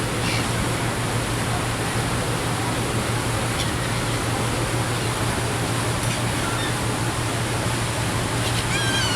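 A ferry under way: a steady rushing noise with a constant low engine hum beneath it. Faint seagull calls come through a few times, most clearly a short run of calls near the end.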